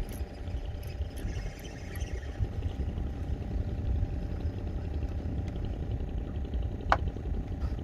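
An engine running steadily at idle, a low even drone with a faint hum over it. A single sharp click comes about seven seconds in.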